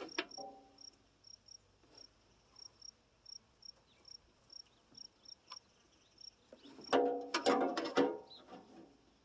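A cricket chirping in short, repeated high chirps. A burst of metallic clicking and clanking comes about seven seconds in.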